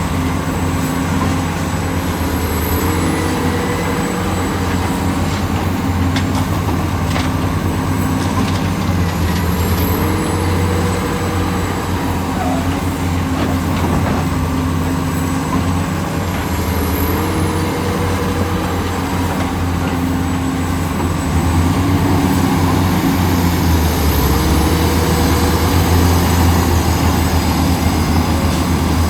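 Heavy diesel engine of an excavator working. Its pitch rises briefly about every seven seconds, with a faint high whine rising and falling each time, and it gets louder in the last third.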